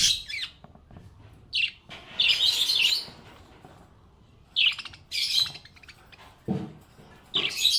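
Small pet parrots chirping and chattering in short bursts of high, rapid notes every second or so, with quiet gaps between.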